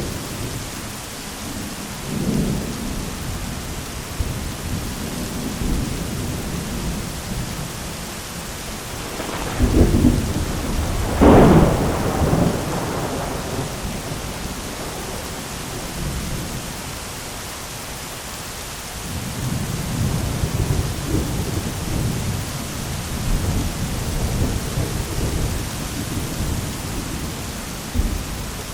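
Heavy rain falling steadily on an umbrella while thunder rumbles low throughout. There are two louder claps of thunder, about ten seconds in and again a second and a half later.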